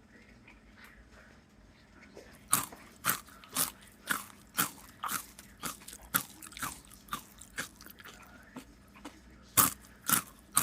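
Someone chewing a crisp chicken quesadilla close to the microphone: loud crunches about twice a second, starting about two and a half seconds in.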